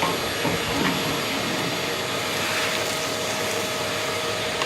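Kärcher WD 3500P wet and dry vacuum cleaner running steadily, sucking up dust and debris. A constant rush of air with a steady whine from the motor.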